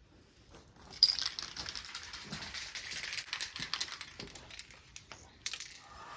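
A rapid, irregular run of small hard clicks and rattles, starting about a second in and thinning out near the end.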